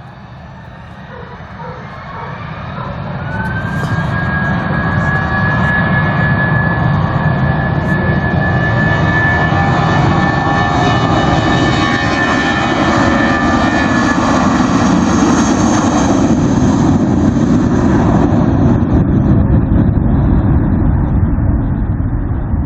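Airbus A320-232 with IAE V2500 turbofan engines at takeoff thrust. A whine rises over the first few seconds and settles on a steady high tone, while the loud jet noise builds and holds, easing slightly near the end.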